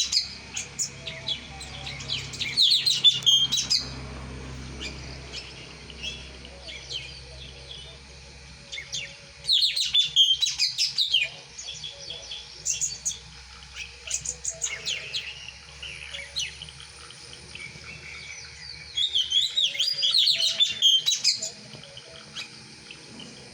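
A songbird singing in loud bursts of rapid, varied, high notes. There are three main phrases, about two seconds long and roughly eight to ten seconds apart, with scattered quieter chirps between them.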